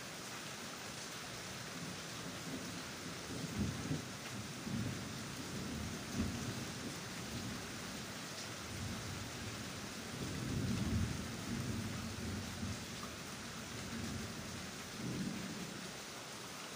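Steady hiss of rain falling outside, with low rumbles that swell and fade several times, the longest about ten seconds in.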